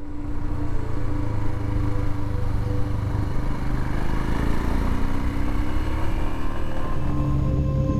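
Royal Enfield Himalayan motorcycle running steadily on the road, its engine sound mixed with a dense low rumble.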